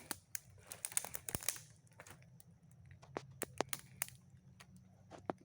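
Footsteps crunching and crackling on dry leaves and twigs: a dense cluster of sharp crunches in the first two seconds, then scattered single cracks.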